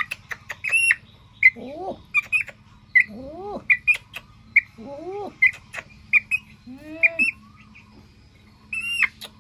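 Birds calling: many short high chirps, sharp clicks, and a low call that rises and falls, repeated about every one and a half seconds.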